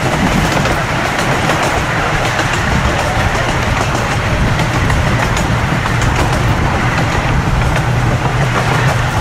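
Small amusement-park train running along its track: a steady rumble with a low hum and light clicking of wheels on the rails.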